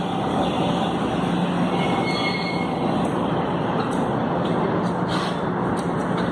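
Electric commuter train pulling into the platform and slowing to a stop: a steady rumble of motors and wheels on the rails, with a brief high squeal from the wheels or brakes about two seconds in and a few sharp clicks near the end.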